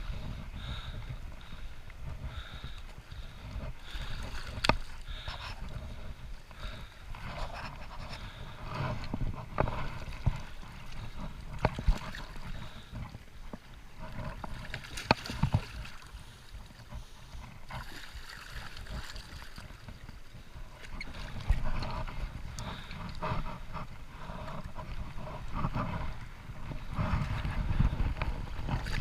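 Sounds aboard a small boat on a river: water lapping and gurgling against the hull, with a low rumble and scattered sharp knocks, the loudest about 5, 12 and 15 seconds in.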